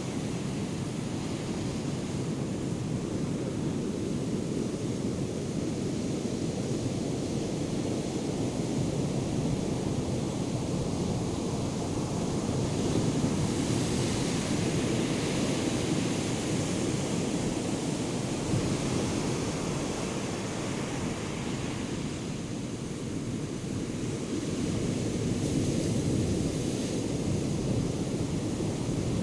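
Ocean surf from a hurricane swell breaking and washing ashore: a steady, heavy rushing that swells louder and hissier about halfway through and again near the end.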